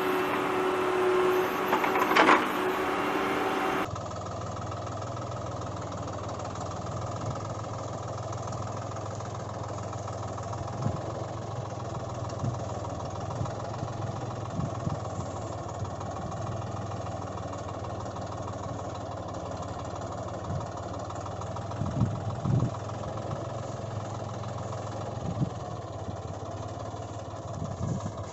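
Steady engine running at an even low hum, with a few faint clicks and knocks. About four seconds in the sound changes abruptly from a different, brighter sound that has one sharp knock.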